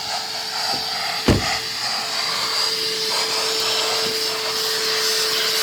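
Vacuum cleaner running steadily with a constant whine, and a single thump a little over a second in.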